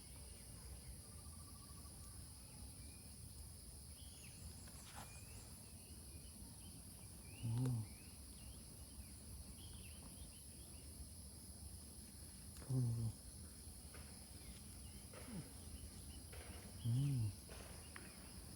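Steady high-pitched insect chorus, a continuous shrill drone. Three short, low-pitched sounds, each about half a second long and louder than the drone, come at roughly five-second intervals.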